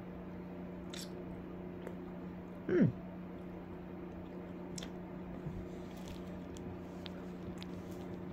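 A person chewing a bite of soft iced chocolate snack cake, with faint wet mouth clicks. About three seconds in there is a short hummed "mm" that falls in pitch, the loudest sound here, over a steady low hum.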